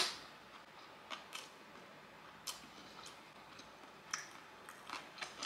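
Close-miked mouth chewing a bite of kimbap: faint, irregular crunchy clicks and wet smacks, the loudest right at the start.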